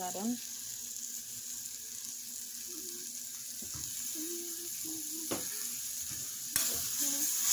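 Shredded chicken breast sizzling in melted butter in a stainless steel pot, a steady hiss with a couple of clinks from a metal spoon against the pot. The sizzle gets louder about two-thirds of the way through.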